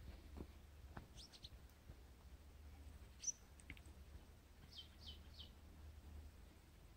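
Faint, high bird chirps over a quiet low rumble: a short cluster about a second in, a single chirp past the middle, and a run of three quick falling chirps soon after.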